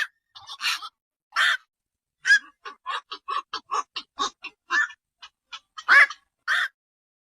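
Black-crowned night herons calling: a run of short croaking calls with gaps between them, a quick series of about ten in the middle and the loudest call about six seconds in.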